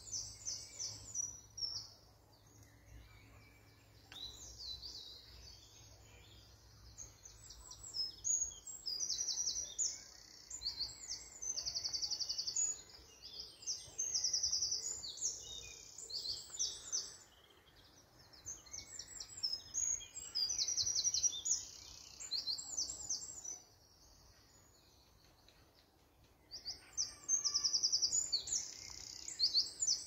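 Small birds chirping and trilling in bursts of rapid, high-pitched notes, with short lulls between the bursts.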